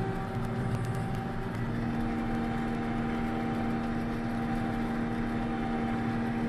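John Deere 6620 combine running steadily while shelling corn: a constant machine drone with a steady whine over it.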